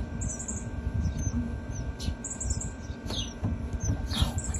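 Nestling songbirds begging for food: short, high-pitched falling cheeps repeated by several chicks at irregular intervals, with a low rumble of handling noise beneath.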